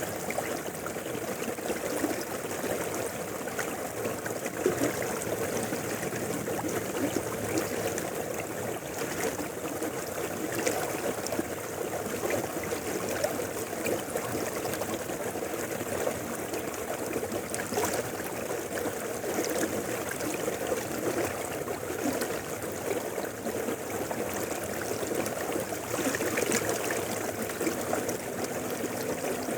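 Mountain river flowing: a steady sound of running water that goes on without a break.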